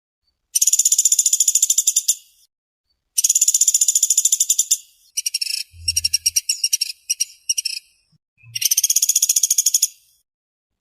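Pelatuk sampit (pelatuk beras) woodpecker calling in rapid, tightly spaced trills, four bouts of about a second and a half each with short pauses between them. The third bout breaks into shorter stuttering runs, with a faint low thump under it.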